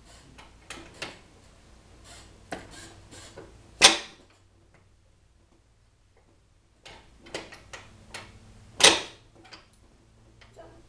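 ATV kick-start lever being kicked down twice, each kick a sharp metallic clunk about five seconds apart after a few lighter clicks, with no engine catching: the quad will not start.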